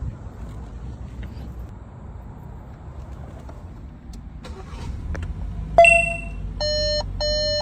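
Car's electronic chime: a low steady rumble with a few light clicks, then a single ding about six seconds in, followed by a run of evenly spaced beeps.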